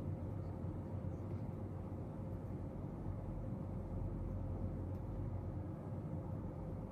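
Steady low room hum with a faint steady tone running through it: the background noise of a quiet room during silent study, with no speech or music.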